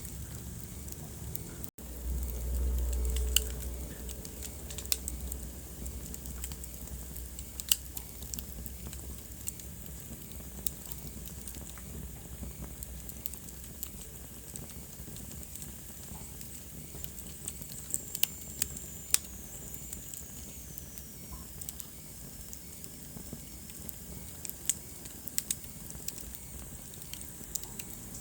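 Wood fire burning in a fireplace: a steady soft hiss with frequent sharp pops and crackles. A low rumble runs for a couple of seconds near the start, and a faint high whistle falls in pitch about two-thirds of the way through.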